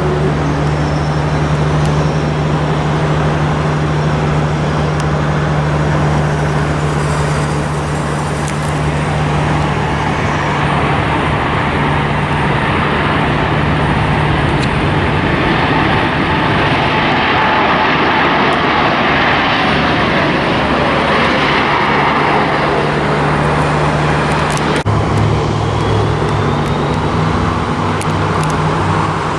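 Jet airliner engines passing close by: a rushing roar swells through the middle with a slowly falling whine, over a steady low hum. The sound changes abruptly near the end.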